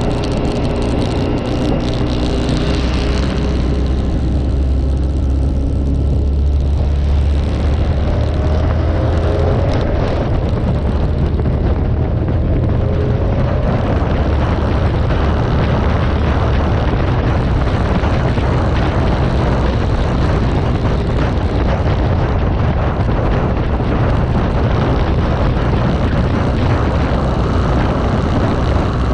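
Motorcycle on the move: the engine note rises in the first few seconds, then settles into a steady low rumble under an even rushing noise.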